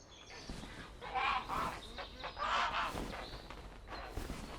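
Herons at a nesting colony giving harsh, rasping calls: two loud calls, about a second in and again around two and a half seconds.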